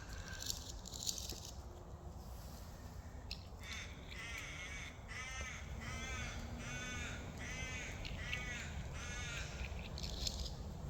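A bird calling: a run of about six repeated calls, roughly one a second, starting about four seconds in.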